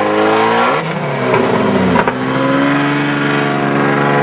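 Car engine revving hard and held at high revs. The revs dip about a second in, climb back, and then hold steady.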